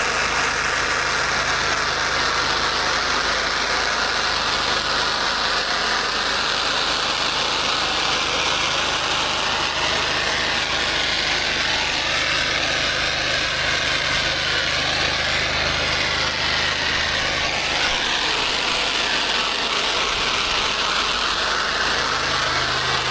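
Gas-engine pressure washer running steadily under load, with the continuous hiss of the high-pressure water spray.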